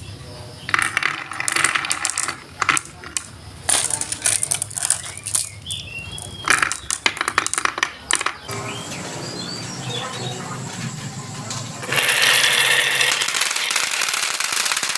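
Wood fire in a fireplace crackling, with rapid sharp snaps and pops for the first half. It then settles into a steadier hiss with a few faint short whistles, and a louder rushing hiss comes in about twelve seconds in.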